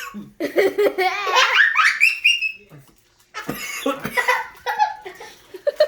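People laughing with wordless vocal cries, including a high rising whoop about two seconds in, then a brief pause before more laughter.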